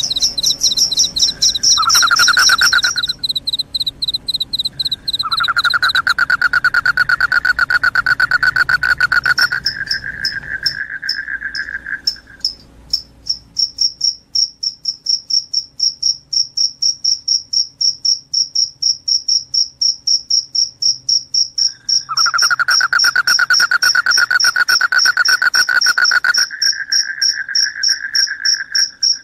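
Crickets chirping in a steady high-pitched pulsed song, a few chirps a second. A lower-pitched continuous trill joins in for spells of several seconds and stops twice.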